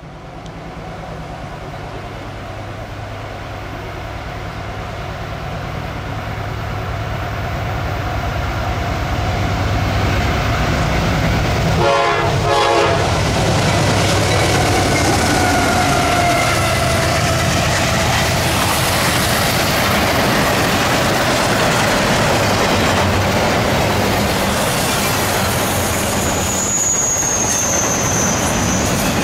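CSX double-stack container freight train approaching and passing. The diesel locomotives' rumble grows louder over the first ten seconds, and a short horn blast sounds about twelve seconds in. After that the stack cars roll by with steady wheel clatter and a high wheel squeal near the end.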